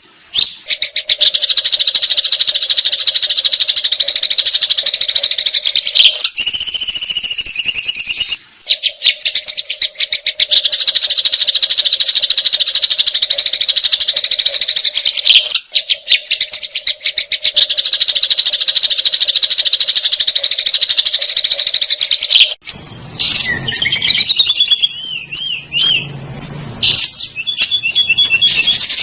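Sparrows' fighting calls: long runs of rapid, harsh chattering chirps broken by a few short pauses. Near the end these give way to more varied whistled calls that slide in pitch.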